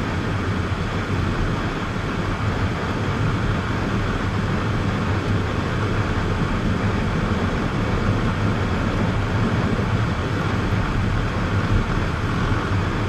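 Steady vehicle noise, the rumble of a car's engine and tyres heard from inside while driving, heaviest in the low end and unchanging throughout.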